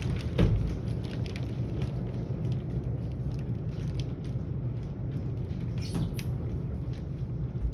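Rain falling steadily, with scattered drips and pattering, and a single louder thump about half a second in.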